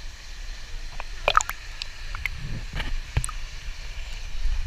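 Water splashing and sloshing as people move about in a pool. A few short, sharp splashes come through, the strongest a little over a second in.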